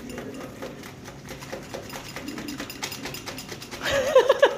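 Blue-and-gold macaw shredding paper with its beak: a quick, irregular run of small crackling clicks and tears. Near the end comes a louder burst of several short squawks.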